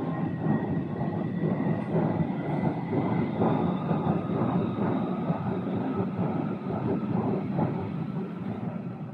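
A train passing close by, its wheels clattering over the rails with a steady rumble and a faint high whine, easing off near the end.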